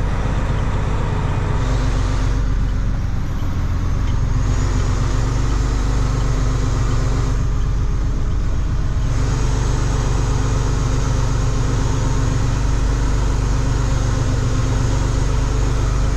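Semi truck's diesel engine running steadily at road speed, with tyre and road noise; the higher hiss eases off briefly twice.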